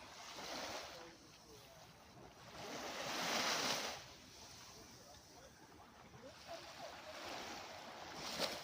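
Sea waves washing onto a beach, rising and falling in swells, the biggest about three seconds in.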